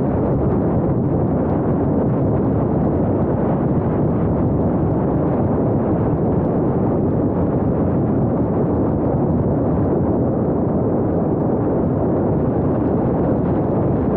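Steady wind and road noise of a moving car, a low, even rumble picked up by a small action camera's microphone, with wind buffeting on the microphone.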